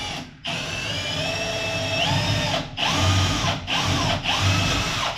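Power drill boring a hole through the boat's wooden floor: a short burst of running, then a steady motor whine that rises in pitch about two seconds in and briefly slows three times as the bit works through.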